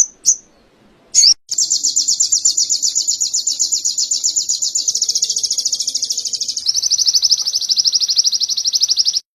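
A ruby-cheeked sunbird (sogon) singing canary-style song: a couple of short high chips, then a long, fast, high trill that shifts its pattern twice and stops abruptly near the end.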